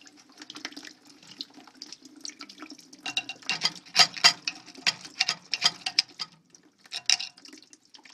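Water flushing out of a steam boiler's drain, splashing and sputtering irregularly as the clogged gunk is cleared.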